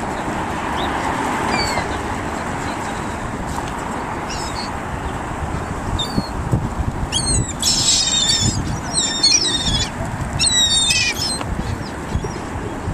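Seagulls calling: a run of short, high squawks in the second half, over a steady rushing background noise.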